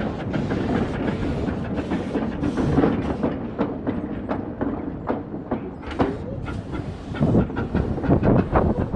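A train running along the track, its wheels clattering over the rail joints in a string of uneven knocks over a steady rumble.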